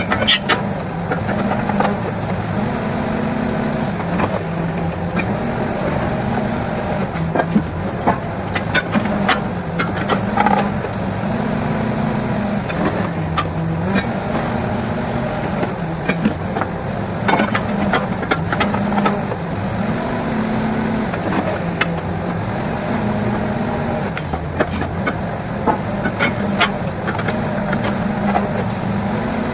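Engine of a truck-mounted borewell drilling rig running steadily, its tone stepping up and down every few seconds, with scattered sharp knocks.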